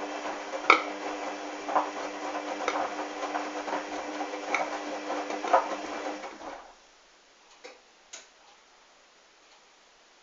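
Hoover washing machine's drum motor humming as it turns a load of wet towels during the wash, with a knock about once a second. The motor stops about two-thirds of the way through, two short clicks follow, and then it goes quiet as the drum pauses between turns.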